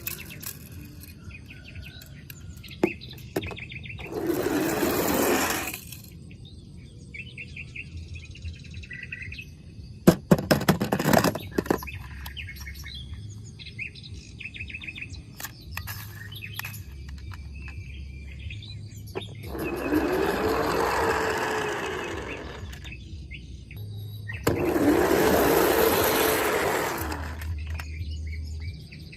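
Small birds chirping in short repeated trills, broken by three loud rushing noise bursts of two to three seconds each and a cluster of sharp clicks about ten seconds in.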